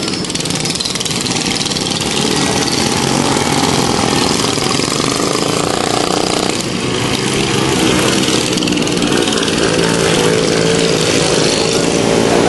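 Small single-cylinder mini bike engines racing, their buzzing notes overlapping and shifting in pitch as the bikes speed up and slow down, getting a little louder over the last few seconds.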